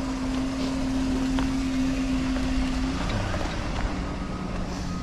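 A motor vehicle's engine running with a steady low hum that drops in pitch about three seconds in.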